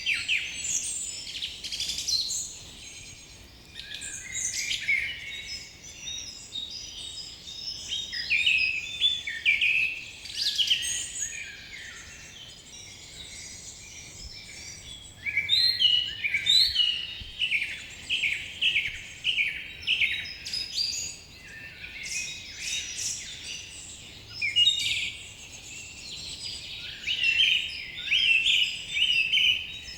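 Several birds singing and calling together in a forest chorus, with overlapping chirps, trills and quick repeated downward-sliding notes, over faint background hiss.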